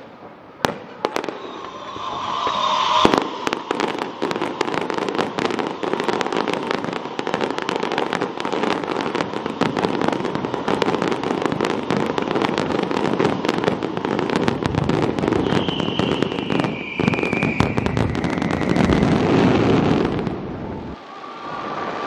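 Aerial firework shells going off in a finale barrage. A few separate bangs come in the first second, then from about two seconds in there is a dense, continuous run of bursts and crackling. A brief high whistle sounds about two-thirds of the way through, and the barrage drops away about a second before the end.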